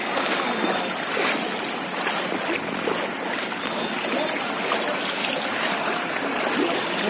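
Steady rushing and trickling of floodwater, with faint voices in the background.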